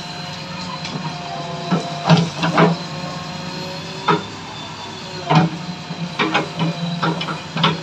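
A JCB 3DX backhoe loader's diesel engine runs steadily, with a faint high whine. Irregular sharp knocks and clatters come over it, about ten in all, the loudest about two seconds in and just past five seconds in.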